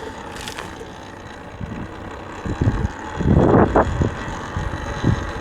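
Wind buffeting the microphone while riding an electric dirt bike, with no engine note. The wind rumbles low at first, then comes in loud gusts about three seconds in.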